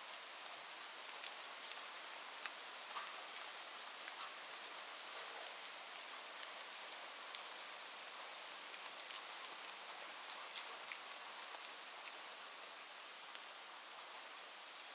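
Steady rain: an even hiss of falling rain with scattered sharp ticks of individual drops throughout.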